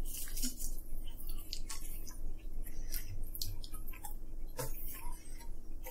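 Two people chewing waffle fries and chicken nuggets with their mouths close to the microphone: an irregular string of small clicks and crunches.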